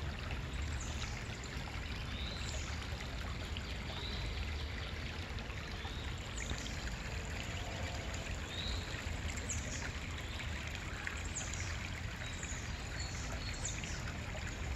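A creek flowing steadily as a gentle, subdued stream. Small birds chirp briefly now and then over the water.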